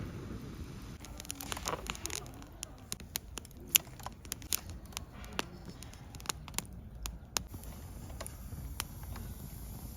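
Irregular sharp clicks and taps with light crinkling, from objects being handled, the loudest a single sharp knock near the middle.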